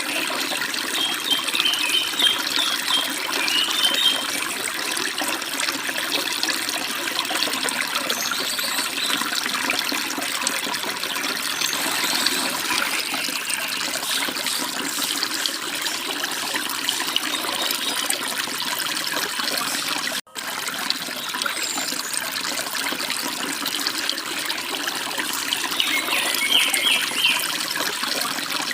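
A forest stream rushing and splashing steadily over small falls. Small birds chirp briefly in the first few seconds and again near the end, and the water cuts out for a moment about two-thirds of the way through.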